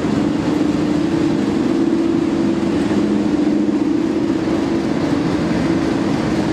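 Class 37 diesel locomotive's English Electric V12 engine running steadily at a station platform, a constant deep hum with a low drone.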